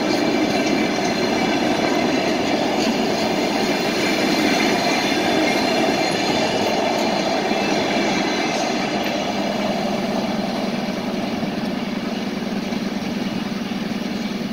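Ukrainian Railways (UZ) passenger coaches rolling past as the train departs: a steady rumble of wheels on rail with a few clicks at the rail joints, growing quieter near the end as the last coach moves away.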